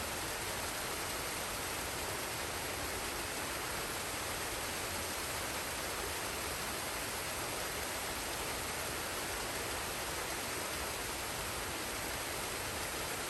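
Forest waterfall and stream rushing steadily: an even, unbroken hiss of falling and running water.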